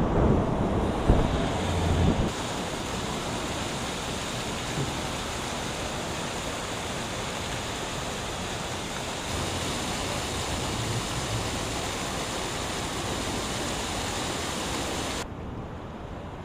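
Strong wind blowing, buffeting the microphone with a low rumble for the first two seconds, then a steady rushing hiss. The sound changes abruptly about two, nine and fifteen seconds in.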